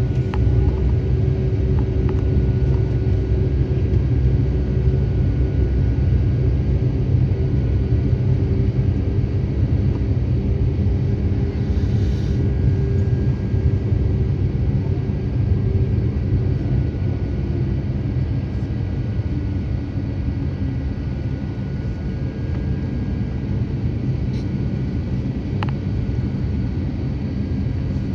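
Steady low rumble inside an Airbus A350-900 cabin while taxiing, with a faint steady hum from its Rolls-Royce Trent XWB engines at low power; the noise eases slightly near the end.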